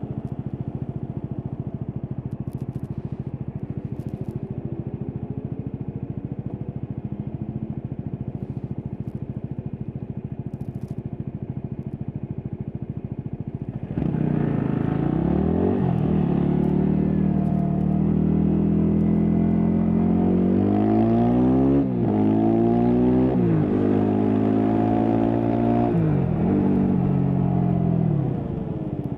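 Stock Yamaha WR250X 250 cc single-cylinder four-stroke engine running steadily at low revs, then about halfway opening up suddenly and getting louder. It revs up and drops back several times, as it does when shifting up through the gears under hard acceleration, and eases off near the end.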